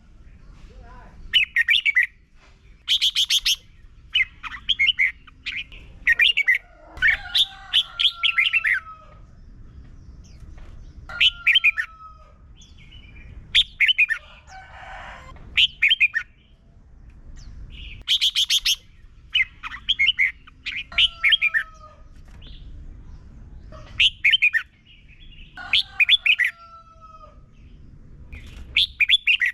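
Red-whiskered bulbul singing: repeated phrases of quick, chirpy notes, some ending in a short falling whistle, coming every few seconds over a faint low rumble.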